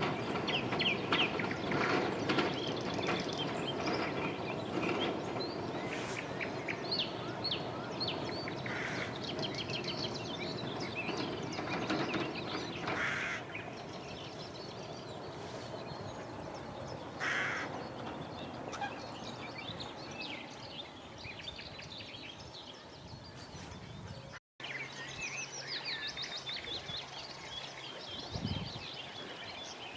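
Many birds singing and calling at once, a chorus of overlapping chirps, trills and harsh calls, over a low rumble that fades away by about halfway through. The sound drops out for an instant about two-thirds of the way in.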